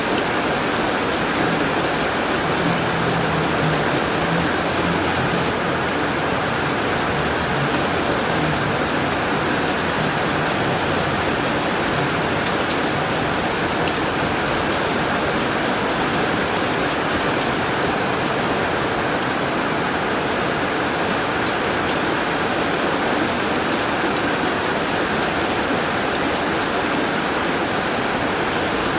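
Steady heavy rain drumming on a tin roof, with a low rumble through the first third.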